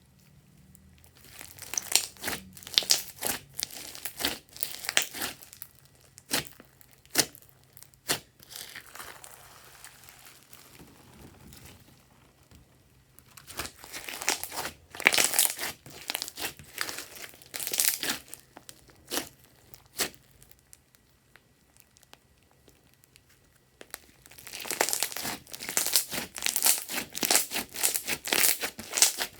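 Glossy slime being squished and stretched by hand, making dense runs of sharp clicks and pops. It comes in three bouts, about a second in, around a third of the way through, and again near the end, with quieter handling between.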